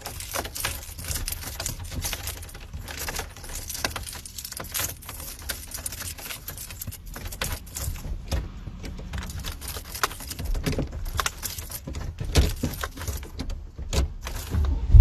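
A key ring jangling and clicking in a car cabin, with many quick sharp rattles throughout over a low rumble.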